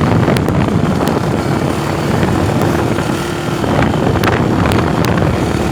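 A vehicle travelling on the road, its engine running steadily under a constant rush of wind on the microphone, with a few sharp ticks.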